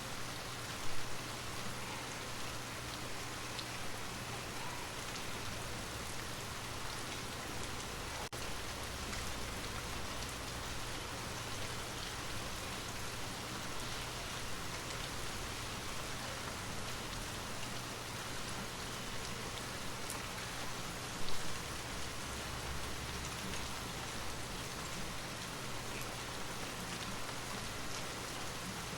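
Steady rain falling, an even patter with a low steady hum beneath it. Two brief louder moments stand out, about a second in and again about 21 seconds in.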